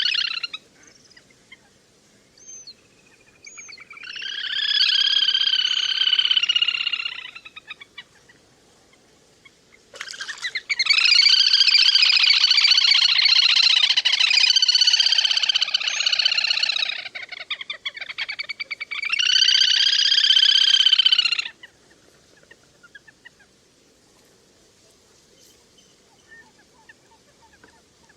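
Recorded calls of the le le hôi, a waterbird call played as a lure for trapping: three long, high trilling bursts lasting a few seconds each, with gaps between them, then fading to faint traces after about twenty seconds.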